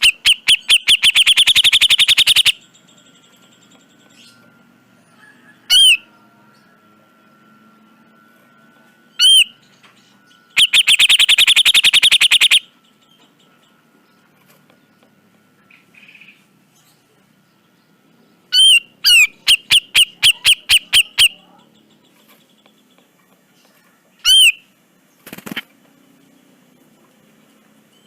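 Grey-cheeked bulbul (cucak jenggot) calling: single sharp whistled notes a few seconds apart, alternating with three harsh rattling runs of rapid repeated notes, each about two seconds long. A short thump comes near the end.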